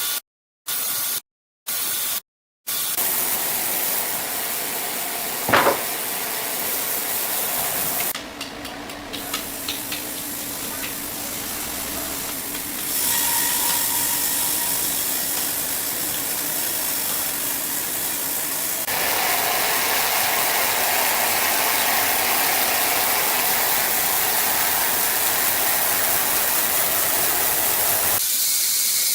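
Sawmill machinery running: a steady hissing mechanical noise that shifts in level at several points, with one sharp knock about five and a half seconds in.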